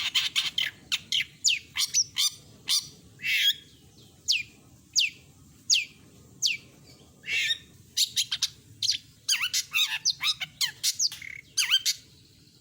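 Long-tailed shrike (cendet) singing a varied song: quick, sharp notes that sweep downward in pitch, fast chattering runs, and a few harsh, grating notes.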